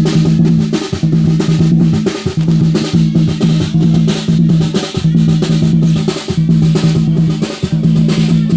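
Folk drums played in a fast, rolling rhythm, the strokes running together into a steady low boom, with a short break that marks off a repeating phrase about every second and a third.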